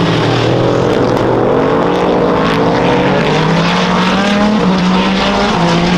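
Race car engines at full throttle, their pitch climbing steadily and dropping back at upshifts about four and a half seconds in and again near the end.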